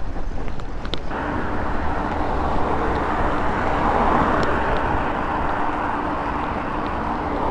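Wind buffeting the microphone and rolling noise during a mountain-bike ride, with a few clicks early. About a second in, a steady hissing hum joins and continues.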